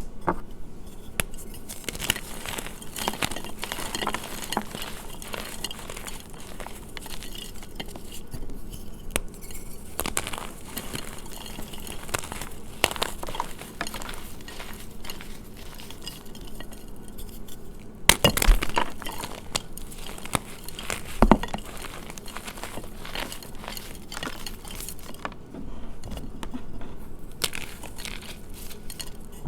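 Blocks of gym chalk being crushed, a dense run of crunches and crackles, with two louder snaps about two-thirds of the way through.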